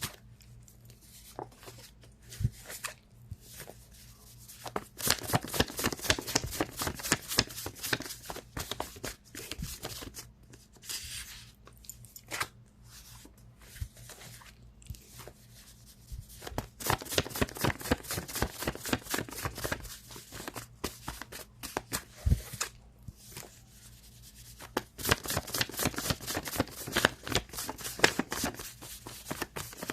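A deck of cards being shuffled by hand: three stretches of rapid papery card slapping, with quieter pauses between them.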